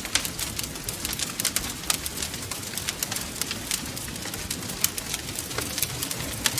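Wood fire crackling: many sharp, irregular pops and snaps over a low, steady rumble of burning.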